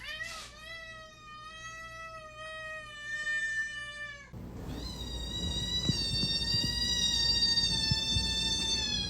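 A dog's long, drawn-out whining howls: one held steady for about four seconds, then a second, higher one starting about four seconds in, over low background rumble.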